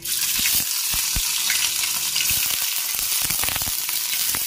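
Paneer cubes sizzling in hot oil in a frying pan as they are dropped in one by one: a steady, loud hiss that starts suddenly, with scattered sharp pops and crackles through it.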